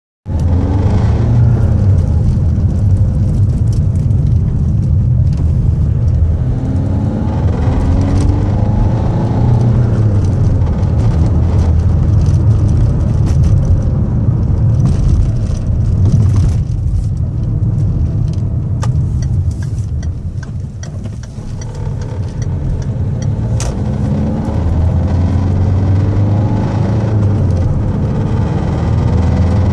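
Citroën C4 Grand Picasso on the move: a steady low rumble of road and engine noise whose pitch rises and falls, broken by a few sharp knocks, the clearest about two-thirds of the way through. The knocking is the fault the owner reports at the driver's-side front of the car.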